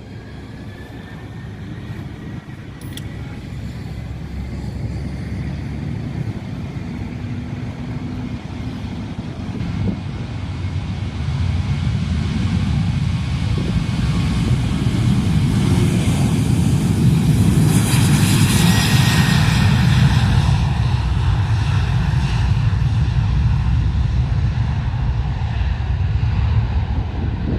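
Airliner's engines passing close by, the sound building steadily to a peak about two-thirds through and then easing a little, with a faint rising whine at the start.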